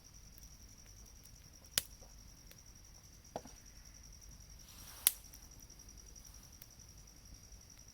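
Campfire wood popping: three sharp, separate cracks a second or two apart, the last the loudest, over a faint steady high-pitched insect trill.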